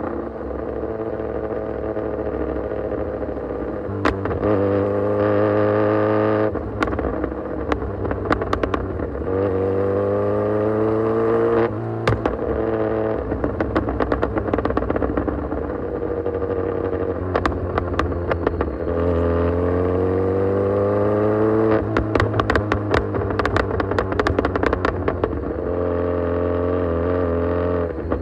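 Kawasaki Z900's inline-four engine through an Austin Racing full exhaust system, revving up hard several times, with the pitch rising through each pull and falling back. Between the pulls, as the throttle closes, there are many sharp crackles and pops.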